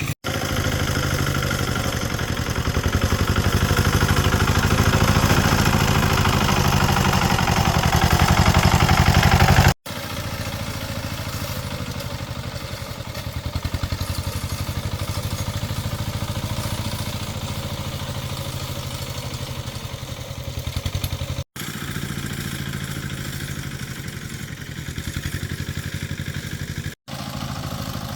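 A small engine running steadily with a fast even pulse, louder for the first ten seconds, then lower after abrupt breaks about ten, twenty-one and twenty-seven seconds in.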